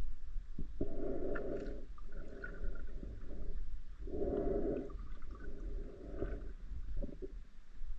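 Muffled sound from a waterproof camera in the water: a spearfisher breathing through a snorkel, four rushing breaths of about a second each, each loud one followed by a softer one.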